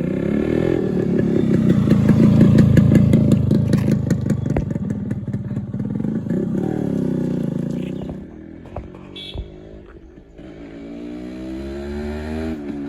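Yamaha RX135's single-cylinder two-stroke engine running loud for several seconds, then falling away about eight seconds in, before picking up again with rising pitch near the end.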